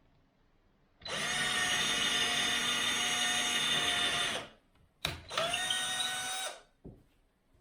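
Power drill running in two bursts at a steady speed, the first about three and a half seconds long and the second just over a second, with a sharp click just before the second.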